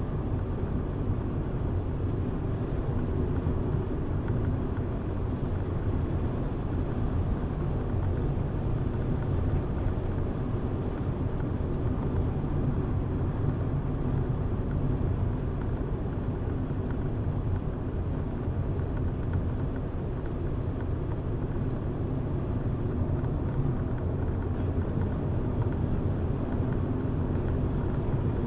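Car driving along a mountain road: steady engine and tyre rumble that holds even throughout.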